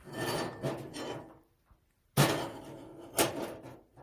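A metal wood-stove accessory being fitted into a hole on the stove: a scraping at first, then two sharp metal clanks about a second apart, the first the louder.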